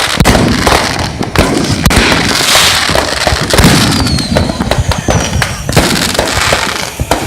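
Firecrackers going off in dense, continuous strings: rapid overlapping bangs and crackling, with a few high falling whistles around the middle.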